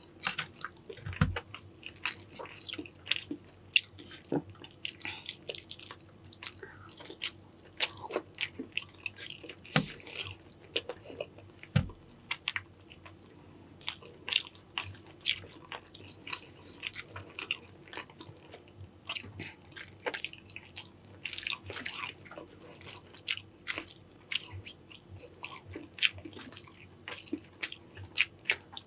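Close-miked eating of a Cajun-sauced seafood boil: biting and chewing with a steady run of irregular crunchy clicks.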